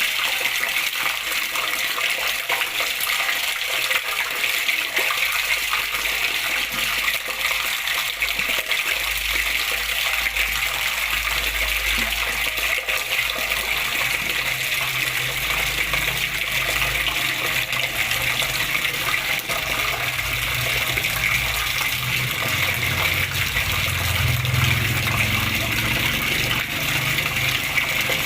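Water flowing and splashing steadily, an even rushing with no breaks.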